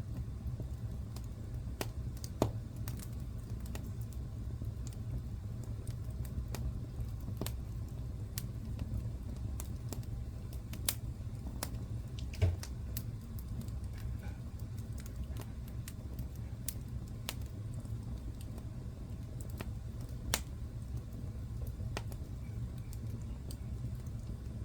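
Fire in a fireplace crackling: irregular sharp pops and snaps over a steady low rumble, with a few louder pops scattered through.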